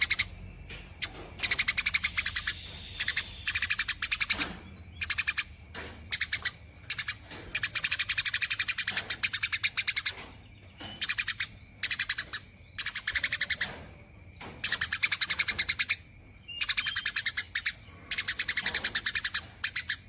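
Eurasian tree sparrow chattering in long, rapid trills, repeated in bursts of about one to two seconds with short pauses between.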